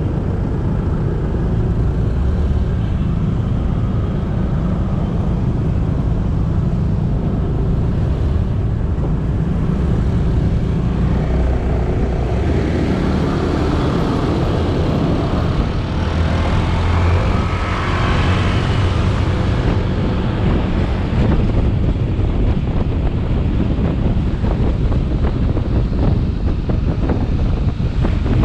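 Motorcycle engine running steadily under way, with wind on the camera microphone and road noise. Between about 12 and 20 seconds in, a louder rushing noise swells and fades over the engine.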